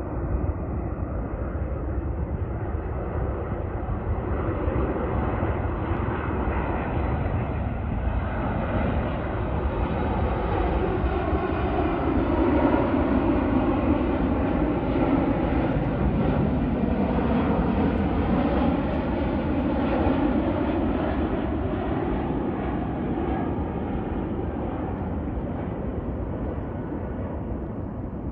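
Airbus A330-300's twin Pratt & Whitney PW4000 turbofans on a landing approach as the jet passes by: the engine noise swells to a peak about halfway through, with tones that bend in pitch, then fades.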